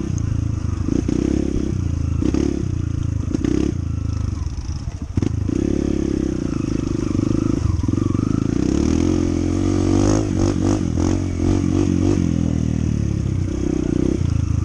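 Honda CT125's single-cylinder engine running as the bike is ridden, its pitch rising and falling with the throttle. Scattered clattering knocks from the bike come in the first few seconds.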